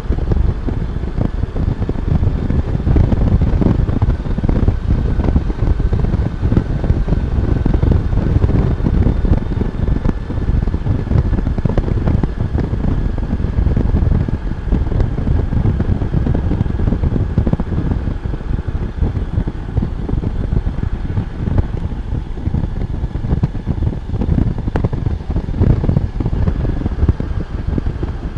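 Honda Gold Wing motorcycle riding at road speed, heard as a steady rush of wind buffeting the camera microphone over the engine's running, with a faint high steady whine.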